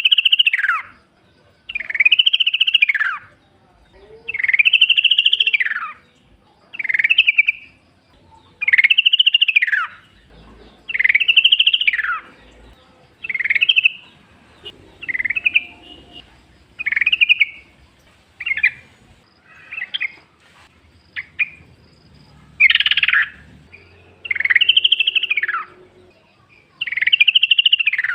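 Yellow-vented bulbul (trucukan) singing in the wild: a short phrase that rises and falls, repeated about every one and a half seconds, with a stretch of shorter, broken notes midway.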